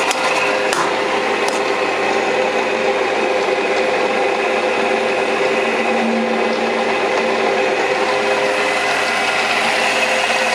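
Small metal lathe running steadily while its cutting tool turns a taper, the conical point of a centre. A few light clicks come in the first two seconds.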